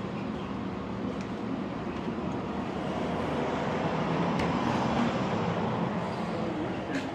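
Road traffic noise swelling and fading, like a vehicle passing, over a steady low hum.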